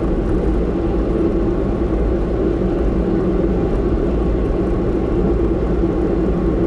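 Steady road and engine noise of a car driving, heard from inside the cabin: an even low rumble with a hum, unchanging throughout.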